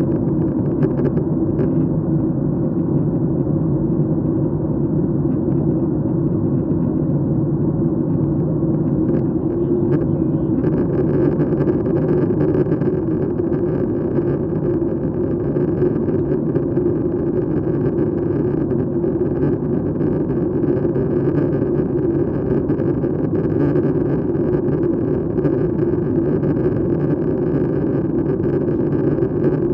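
Steady rumble of an airliner cabin in flight: engines and airflow heard from a window seat. About ten seconds in, a higher hiss joins and stays to the end.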